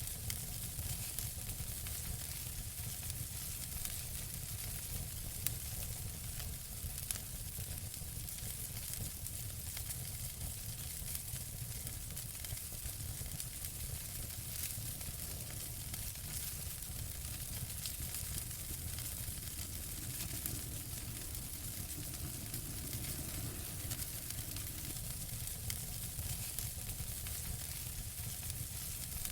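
Fireplace fire crackling steadily, with scattered sharp pops over a constant hiss and low rumble.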